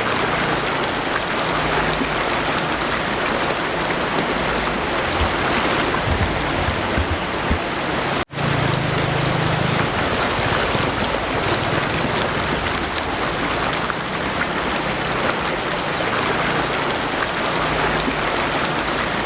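Steady heavy rain falling together with a rushing mountain stream, a dense even hiss. The sound cuts out for an instant about eight seconds in, then resumes unchanged.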